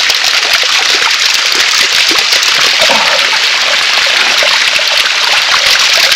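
Steady rushing of flowing water from a stream or spring channel, an even hiss with no pauses.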